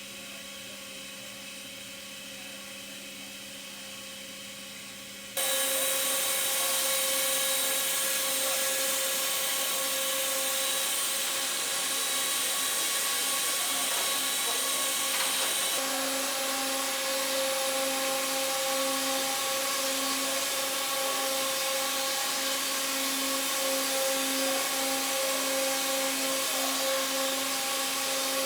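Welding machinery running with a steady whine made of several constant tones over a hiss, jumping abruptly louder about five seconds in and shifting to a slightly pulsing low tone about halfway.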